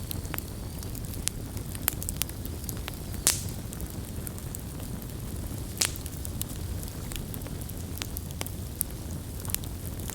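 Campfire crackling: scattered sharp pops and snaps over a low steady rumble of the burning fire, with two louder pops, one about a third of the way in and one a little past halfway.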